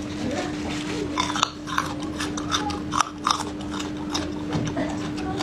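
Close-miked chewing of food, with a run of crisp crunches and wet mouth clicks for a couple of seconds in the middle.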